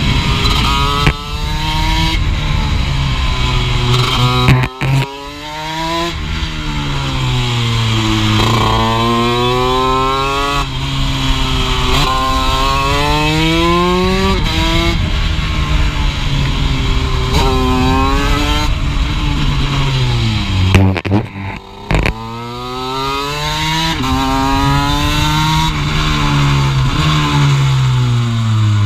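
Honda CR125 two-stroke single-cylinder engine in a small racing motorcycle at speed, revving up through the gears, its pitch climbing and then dropping back at each shift. The throttle closes briefly twice, about five seconds in and about three-quarters of the way through, before the engine picks up again.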